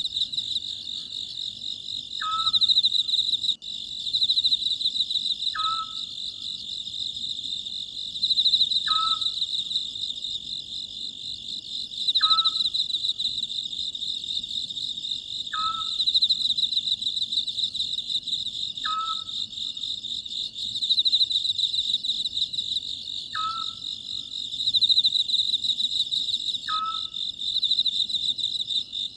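Oriental scops owl giving its short call eight times, about every three seconds, over a steady chorus of crickets chirring.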